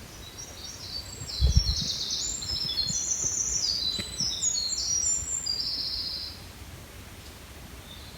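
A songbird singing a long run of high, clear notes at many shifting pitches, lasting about six seconds before it stops. A brief low rumble on the microphone comes about a second and a half in.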